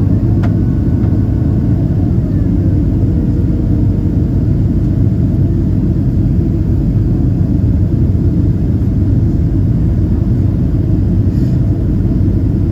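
Steady rumble of a Boeing 767-300ER's engines and rushing air, heard inside the passenger cabin, with a faint click about half a second in.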